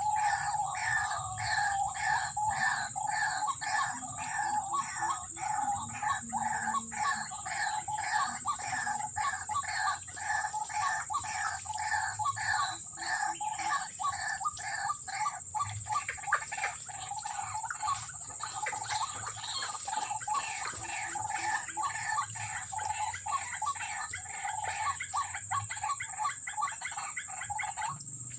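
A bird calling over and over in quick rhythm, several calls a second, over a steady high-pitched drone.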